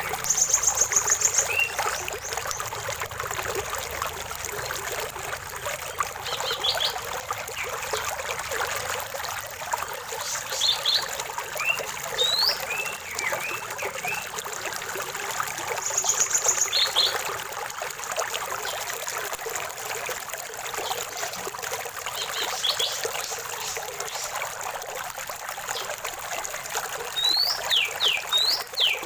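Small stream running and trickling steadily, with birds calling over it: a fast high trill about a second in and again about halfway, scattered short chirps, and a few quick falling whistles near the end.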